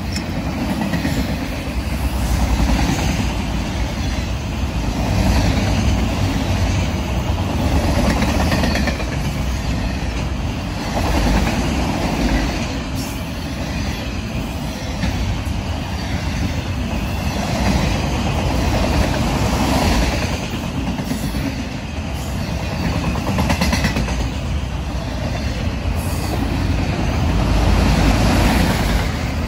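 Freight train of autorack cars rolling past: a steady rumble and rattle of steel wheels on rail, swelling and easing every few seconds.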